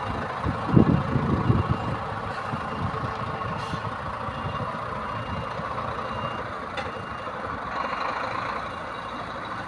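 Truck engine running with a reversing alarm beeping repeatedly over it; a few heavy low thumps about a second in.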